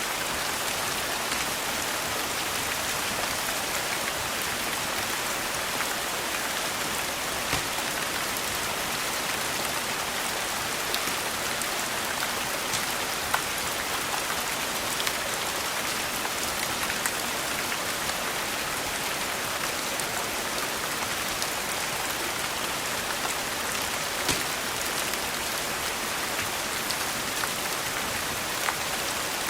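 Steady rain falling, an even continuous hiss, with a few scattered sharp pops from a crackling wood fire.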